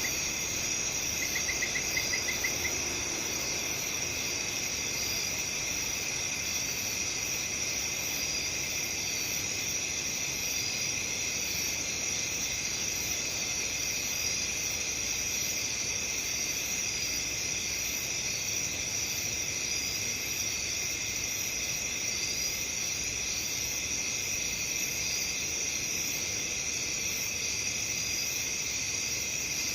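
A chorus of crickets trilling steadily, with several overlapping high-pitched trills and a short run of quick chirps about a second in.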